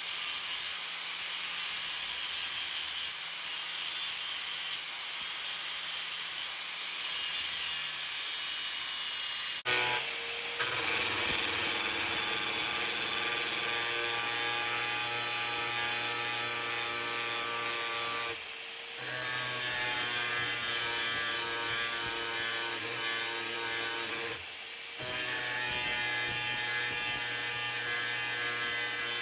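A power tool running steadily against the work, with a scraping, abrasive noise and a steady motor hum. It stops or cuts abruptly several times, about a third of the way in and twice more later, each time starting again.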